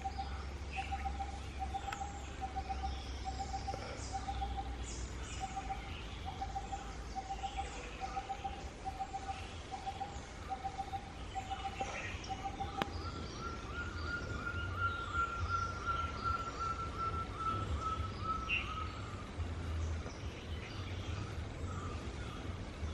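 Forest ambience with bird calls: a short whistled note repeated evenly about one and a half times a second for the first half, then a long trill about six seconds long that slowly sags in pitch. Faint high chirps and a low rumble sit underneath.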